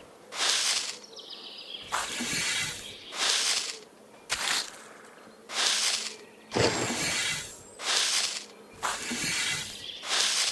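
A series of short scraping noises, about one a second, some longer and some sharp and brief.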